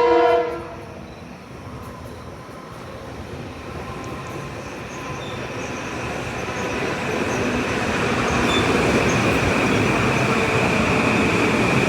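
Metro-North M8 electric multiple-unit train: the end of a horn blast at the very start, then the train's running noise growing louder for about eight seconds as it comes closer and holds, with a steady high-pitched whine rising over the rumble.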